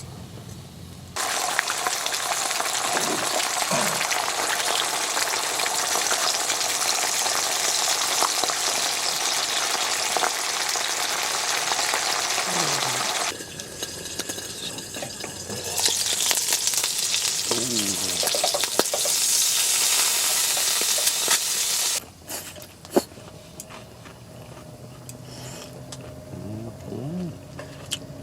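Food frying and sizzling over a campfire, a steady hissing sizzle in two long stretches that start and stop abruptly, with quieter gaps between and after.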